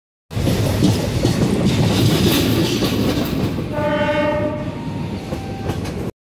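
MEMU passenger train running, with the steady rumble and clatter of its wheels on the rails heard from the open coach doorway. A train horn sounds once, for about a second, a little past the middle.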